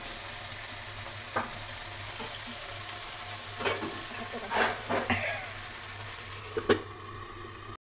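Chopped onion, garlic, tomato and green chillies sizzling in hot oil in a pan, with a steady hiss, while being stirred: a utensil scrapes or knocks against the pan about five times.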